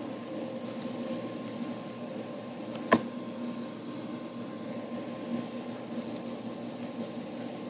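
A steady mechanical hum with a faint whine, and one sharp click about three seconds in.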